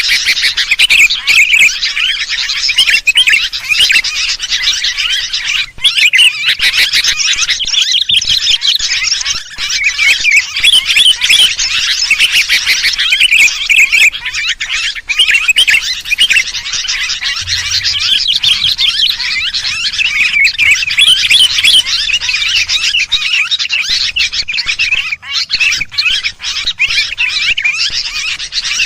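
Many sooty-headed bulbuls (kutilang) calling and chattering at once in a dense, unbroken, noisy chorus of quick squeaky chirps, the agitated "kutilang ribut" sound used as a lure call to draw birds in.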